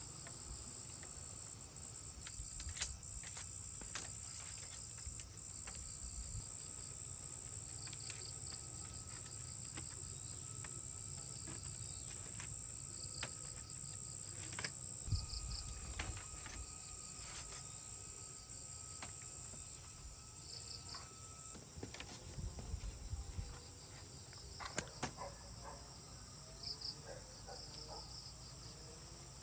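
Steady high-pitched insect trilling, with short bursts of chirps every few seconds. The trill weakens about two-thirds of the way through. Scattered clicks and knocks are heard throughout.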